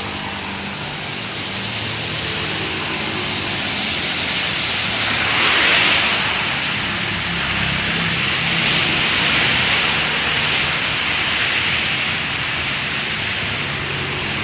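Traffic passing on a rain-wet road: tyre spray hiss swells to a peak about halfway through as a vehicle goes by, over a low engine hum.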